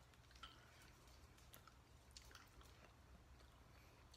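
Faint chewing of a sticky, tough wasabi nori snack: a few soft mouth clicks scattered over near silence.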